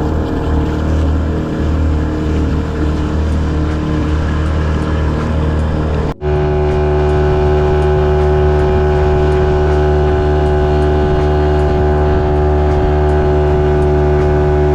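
A boat's motor running steadily, with an abrupt break about six seconds in, after which it runs on at a very even pitch.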